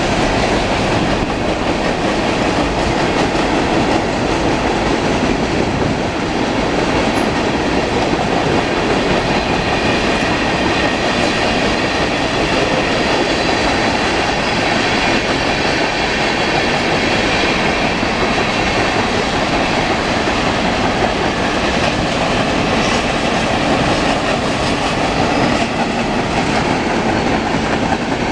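Mixed freight train cars rolling past at steady speed: a continuous rumble of steel wheels on the rails with clickety-clack over the rail joints.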